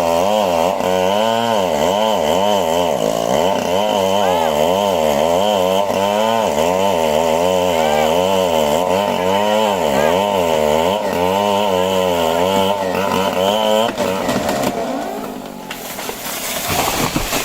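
Two-stroke Stihl chainsaw cutting into a trembesi (rain tree) trunk, its engine pitch rising and falling again and again as the chain loads and frees in the wood. The saw stops about 14 seconds in, and a brief rushing noise follows near the end.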